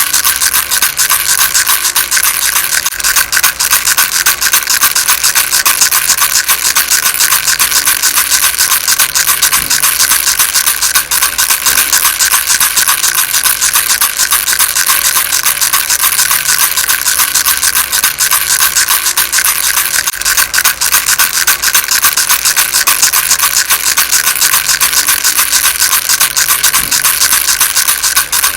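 Baby rattle shaken steadily and fast: a dense, unbroken rattling of many small pellets, high and even in tone.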